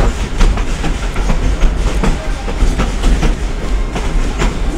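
Narrow-gauge passenger train cars rolling along the track, heard from aboard an open-sided car: a steady low rumble with the wheels clicking sharply and irregularly over the rail joints.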